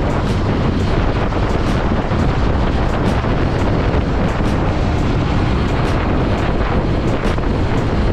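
Steady wind buffeting the microphone over the running noise of a motorcycle on the road.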